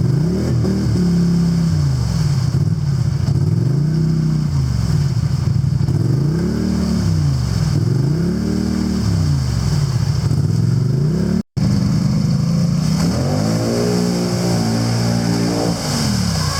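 ATV engine running hard on a trail, revving up and easing off over and over so its pitch rises and falls about every two seconds. The sound cuts out for an instant about two-thirds of the way through, then the engine carries on more steadily.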